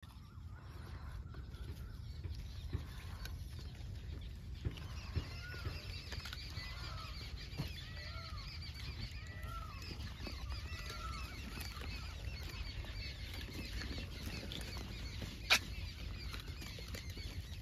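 Birds calling: a short rising-and-falling call repeats about every second for several seconds over a busy, faint chatter of smaller birds, with a steady low rumble underneath. A single sharp click near the end is the loudest sound.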